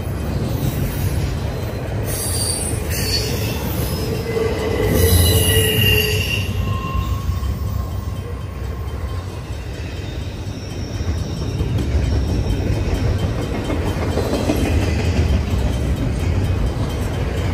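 Double-stack intermodal container cars of a freight train rolling steadily past with a constant low rumble. High-pitched wheel squeal comes in a few seconds in and is loudest around the middle, with fainter squeals later.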